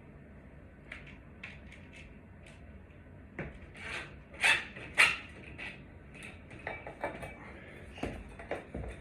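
Clicks, clinks and knocks of small hard parts being handled, with two louder sharp clanks about four and a half and five seconds in.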